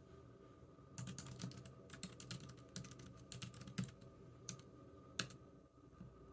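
Computer keyboard typing: a run of quick keystrokes starts about a second in and lasts about three seconds, followed by two single key presses.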